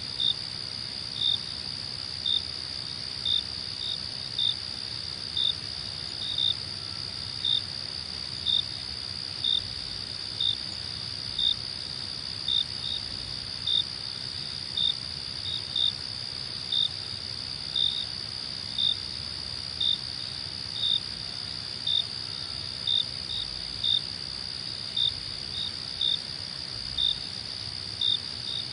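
Crickets: a continuous high-pitched trill, with a louder short chirp about once a second.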